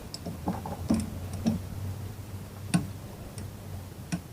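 Low-range torque wrench ratcheting as a small bolt is tightened toward 8 N·m: a handful of short, sharp clicks at uneven spacing, over a low steady hum.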